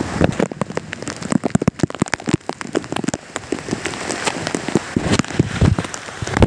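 Heavy rain pattering on a plastic tarp, with many loud, irregular drops striking close by.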